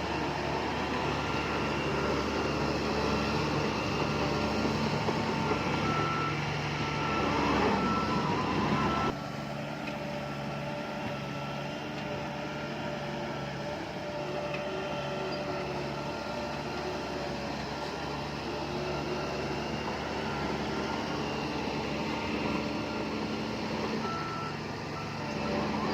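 Heavy construction vehicle engine running under a reversing alarm that beeps repeatedly. The beeping sounds through the first nine seconds and returns near the end. The sound drops sharply and changes about nine seconds in.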